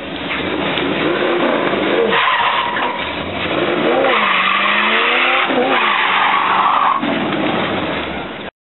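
1955 Chevy pickup's 327 small-block V8 revving hard during a burnout, its pitch rising and falling several times, with the rear tyres squealing as they spin. The sound cuts off suddenly near the end.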